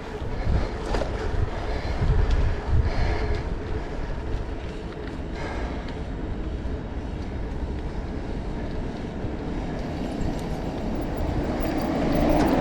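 A train rumbling past, a steady noise with heavy low thumps in the first few seconds and a swell near the end.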